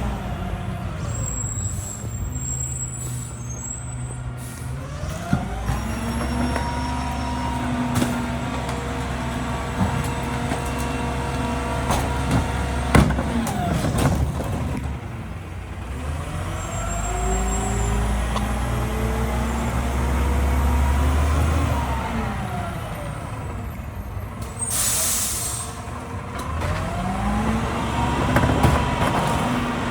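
Mack LEU rear-loader garbage truck's diesel engine revving up and dropping back to idle several times, with a few sharp clanks and a short burst of air hiss from the air brakes about 25 seconds in.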